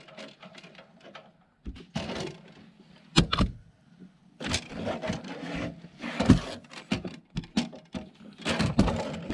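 Irregular knocks, clicks, scrapes and light rattles of handling in a car's engine bay, with a sharper knock about three seconds in.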